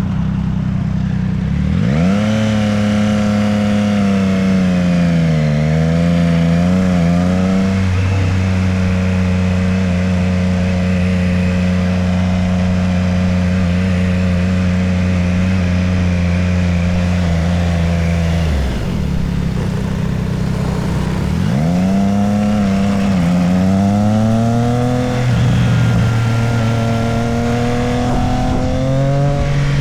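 Motorcycle engine under way: it revs up about two seconds in, dips and wavers through a few gear changes, then holds a steady pitch while cruising. It falls away near the middle, then pulls up again and steps through more shifts near the end.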